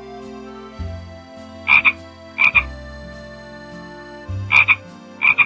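Frog croaking: two pairs of short croaks, each croak a quick double pulse, the first pair about two seconds in and the second near the end, over a steady low background tone.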